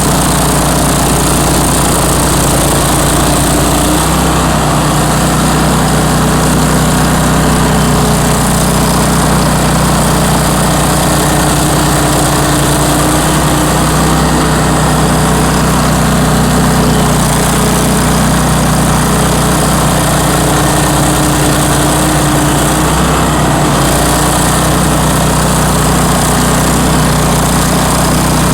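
Bandit ZT1844 stump grinder's engine running steadily, with slight shifts in its note a few times.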